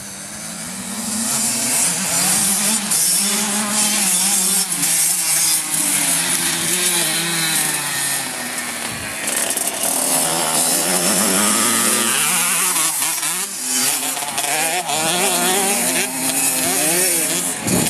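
Motocross dirt bike engine running at high revs, its pitch rising and falling again and again as the rider opens and closes the throttle, with a steady high hiss over it.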